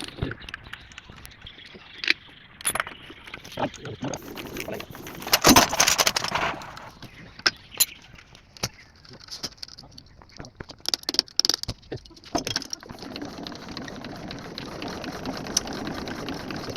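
Metal hand tools clinking and rattling against engine parts in a string of irregular sharp clicks, with a louder burst of rattling about five seconds in.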